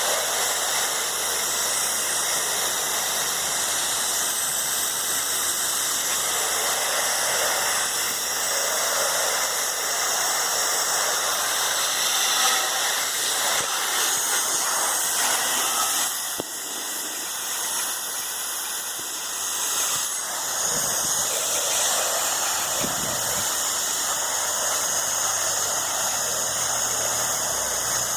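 Pressure washer spraying through a dual-pressure lance set to low pressure, drawing soap solution from the injector: a steady hissing spray, with the machine's engine running underneath.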